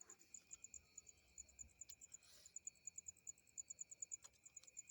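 Insects, crickets by the sound, chirping faintly in a fast, even trill of high pulses over a steady thin high drone.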